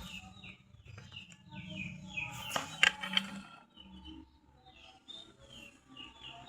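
Bird chirping repeatedly in short, falling chirps, a few each second, with a few sharp clicks about halfway through.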